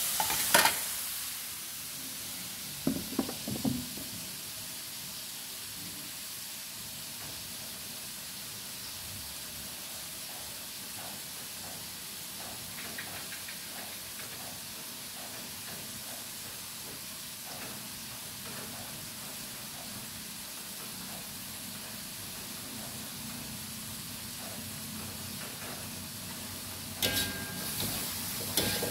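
Shrimp and squid sizzling steadily in a hot wok. A metal ladle scrapes and knocks against the wok a few times in the first few seconds and again near the end.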